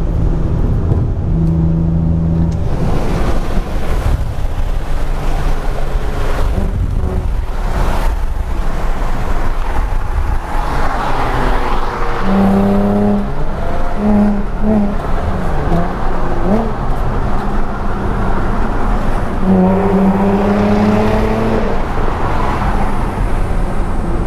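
Infiniti G35's 3.5-litre V6 revving hard under load, its note climbing and dropping again several times.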